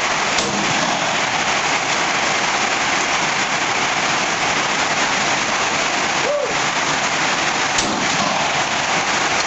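Steady heavy rain falling and drumming on surfaces.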